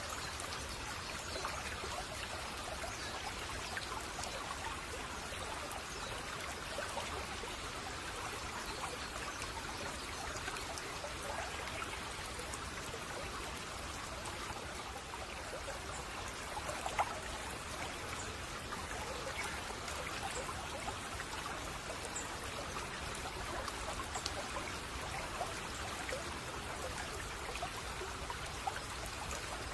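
Shallow babbling stream trickling and splashing steadily, with one slightly louder splash partway through.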